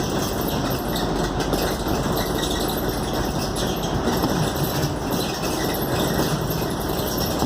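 Scania K280UD double-decker bus's five-cylinder diesel engine running steadily, heard from inside the passenger cabin with a low rumble and even road and body noise.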